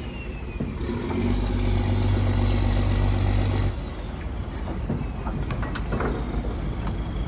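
Fishing trawler's machinery running with a steady low hum that cuts off suddenly about four seconds in, followed by a few scattered knocks and clatters.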